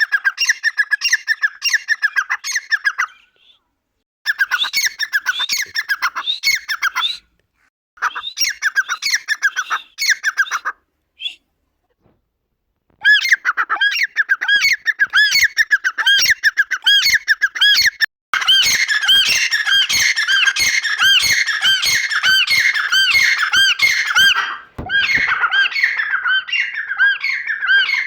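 Dakhni teetar (grey francolin) calling: rapid runs of repeated, high squeaky notes in bouts with short pauses between them, then calling almost without a break over the last third.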